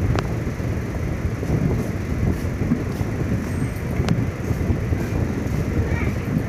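A train running, with a steady low rumble and a couple of sharp metallic clicks.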